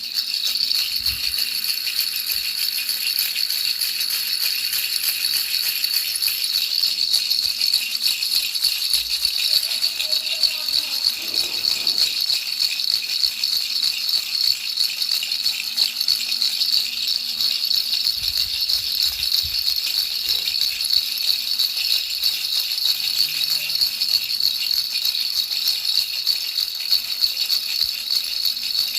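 Baby rattle shaken continuously: a steady, fast, hissy rattling of small beads without a break.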